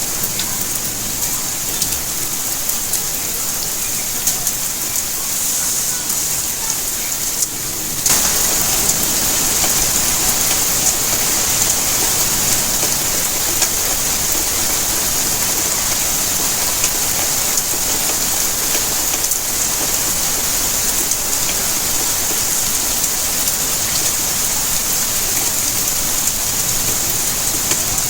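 Steady rainfall, an even hiss of many drops landing. About eight seconds in it turns abruptly louder and fuller, then holds steady.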